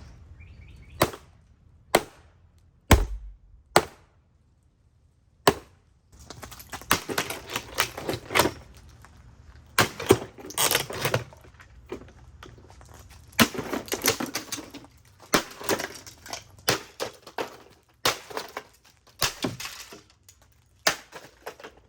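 A plastic Hoover MaxLife Total Home Pet upright vacuum cleaner being smashed: single sharp blows about once a second at first, then, from about six seconds in, a dense run of hits with plastic cracking and breaking.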